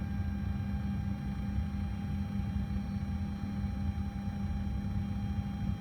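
Steady low rumble and hum in a Boeing 737 cockpit, with a few thin steady tones over it, as the number 2 engine is turned by its air starter in the first seconds of its start, before oil pressure comes up.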